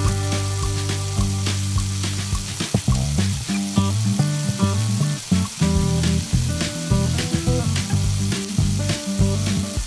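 Chicken thighs, onion and carrot sizzling and crackling as they brown in a frying pan, with background music playing over it.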